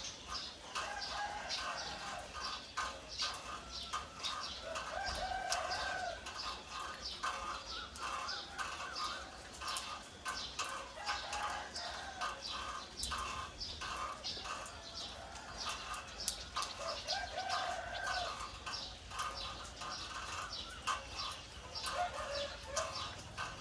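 Birds calling continuously, many short chirps overlapping, with lower, drawn-out calls every few seconds.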